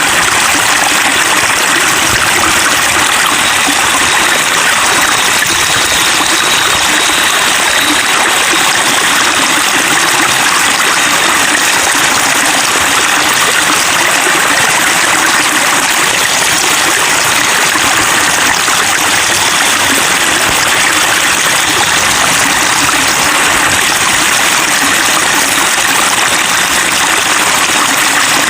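Flowing water babbling steadily, a continuous trickle and splash of running water.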